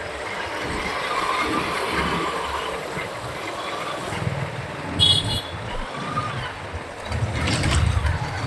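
City road traffic heard from a moving motorcycle: steady engine and road noise, with a short high beep about five seconds in.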